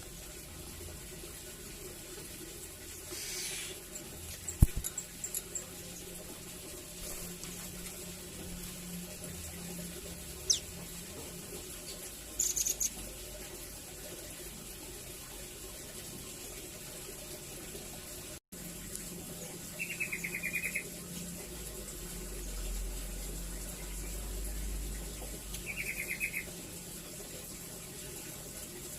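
Nuthatch giving sparse calls: a few short high chirps and two brief rapid trills, over a steady hiss. A sharp click about five seconds in is the loudest sound.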